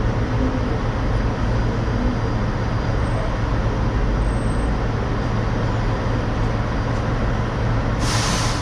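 Steady low idling rumble of nearby diesel trucks at a port gate. A short loud hiss starts near the end.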